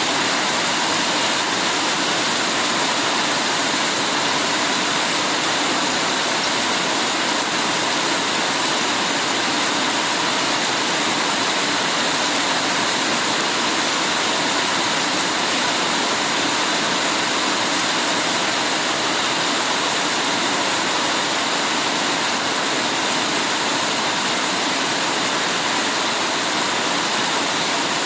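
Heavy rain falling steadily, a dense even hiss without breaks.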